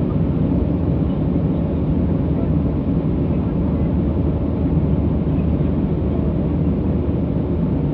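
Boeing 737's twin jet engines at takeoff power, heard from inside the passenger cabin as a steady low rumble mixed with airflow noise.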